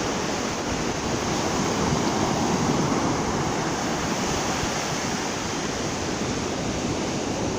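Ocean surf washing in and out on the beach, a steady rush that swells gently.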